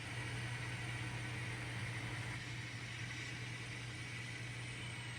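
N scale model train locomotive running steadily on the layout, a low even hum with a haze of rolling noise.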